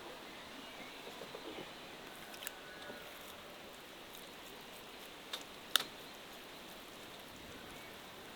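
Steady outdoor background hiss with a few sharp clicks, the loudest a little before six seconds in, and faint bird calls.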